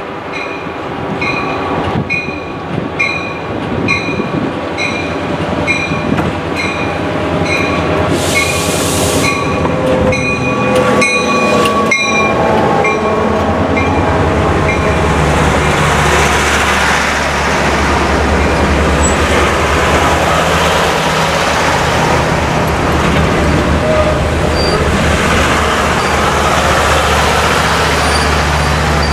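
Chepe diesel-hauled passenger train approaching, with a bell-like ringing repeating about every half second. From about 12 s in, the passenger cars roll past close by with a loud, steady rumble of wheels on rail.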